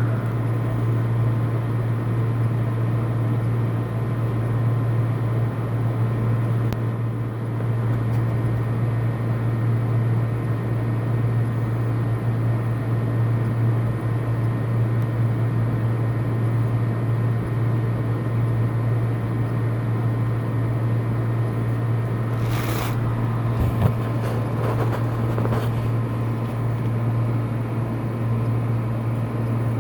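A steady low hum over even background noise, with a few brief noises about three-quarters of the way through.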